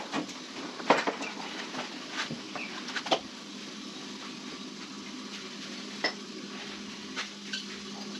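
Metal tools and parts clinking and knocking at irregular intervals, some with a short ring, over a steady low hum.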